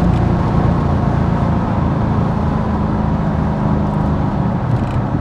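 Callaway twin-turbo C4 Corvette's V8 running steadily on the road, a smooth drone that drops slightly in pitch near the end. Running clean now that its cylinder 6 misfire from a burnt plug wire has been fixed.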